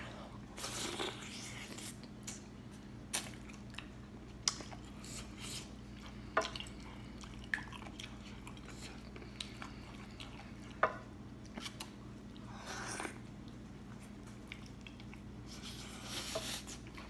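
Close-up mouth sounds of a person eating rotisserie chicken dipped in nacho cheese sauce: wet chewing and smacking with scattered sharp clicks, and longer squelchy bursts near the start, about two thirds of the way through and near the end.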